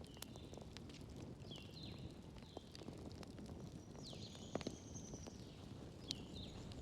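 Wood fire crackling in a fireplace: scattered sharp pops and snaps, the loudest about four and a half seconds in, over a low steady rustle. Short high chirp-like tones sliding down in pitch come several times.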